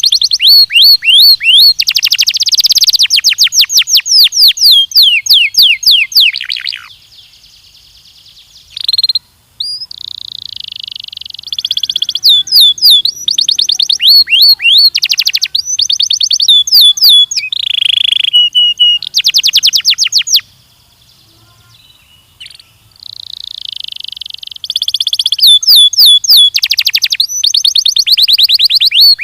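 Belgian canary singing: long rolling trills of fast repeated notes that sweep downward, mixed with held whistled notes, with two short pauses in the song.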